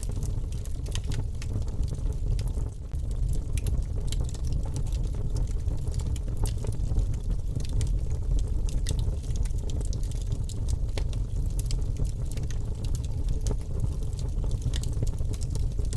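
Wood fire crackling in a fireplace: many small sharp pops and snaps over a steady low rumble of burning.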